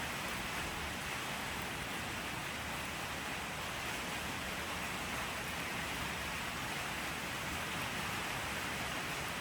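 Steady rainfall: an even hiss of rain falling, without thunder or separate drops standing out.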